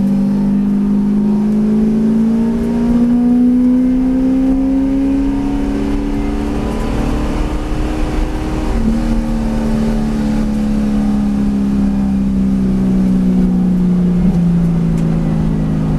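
V8 race car engine running under load, its note climbing steadily for about eight seconds. The pitch then drops abruptly and falls away gradually as the car slows.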